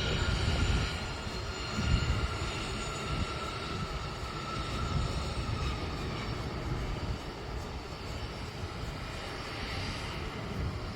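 Business jet's engines during takeoff: a steady rumble with a faint high whine that drifts slightly lower in pitch.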